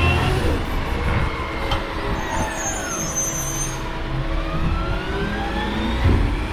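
Garbage truck working: its engine revs up and down, its pitch falling and then climbing again. A high squeal sounds from about two to nearly four seconds in, and there is a knock near the end.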